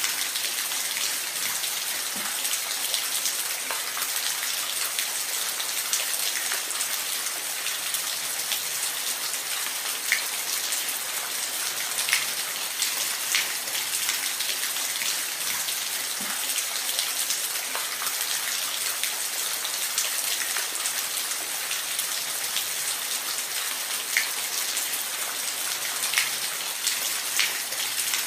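Steady rain falling: an even, dense hiss with scattered louder individual drops ticking through it.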